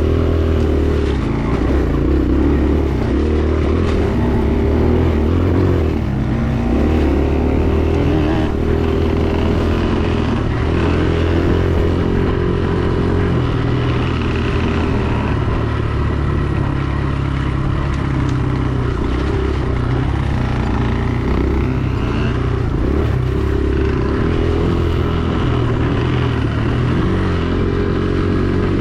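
Dirt bike engine running under load on a trail ride, its pitch rising and falling as the throttle opens and closes.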